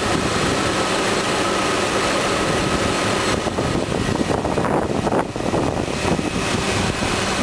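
2004 Jeep Grand Cherokee's 4.0-litre inline-six engine idling steadily with the hood open. About three seconds in the sound turns rougher and less even.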